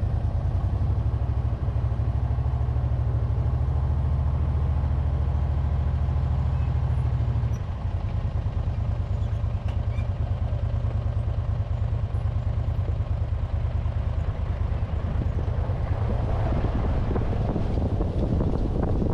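Vehicle engine running with a steady low, pulsing rumble; its note shifts about seven seconds in. Wind buffets the microphone toward the end.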